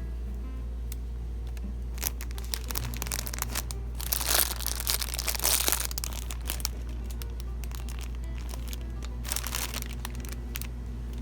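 Background music, with plastic wrapping crinkling and rustling as it is handled: a longer stretch about four seconds in and a shorter one near the end.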